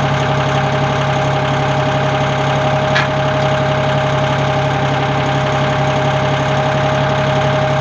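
2019 Massey Ferguson 1740M's three-cylinder turbocharged Shibaura diesel running steadily, with a thin steady tone over the engine note. A brief click about three seconds in.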